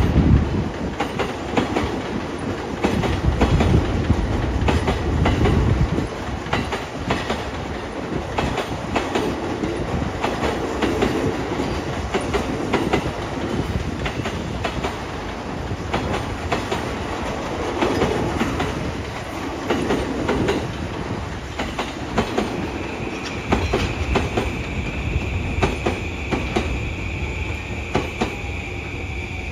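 JR East E235-series electric commuter train running along the tracks, wheels clicking repeatedly over rail joints under a continuous rumble. A steady high-pitched whine joins about three quarters of the way through, with a faint tone falling in pitch near the end.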